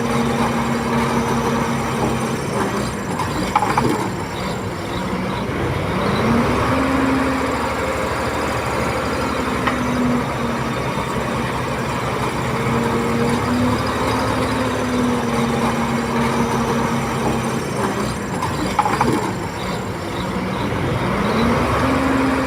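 Komatsu D21P bulldozer's diesel engine running steadily, its pitch sagging and climbing back twice as it takes and sheds load while pushing soil, with short metallic clanks near each dip.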